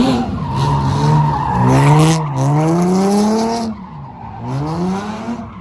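A car engine revving hard, its pitch rising and falling several times, with tyres squealing loudly under it. The squeal stops about two-thirds of the way through, and the engine keeps revving up more quietly.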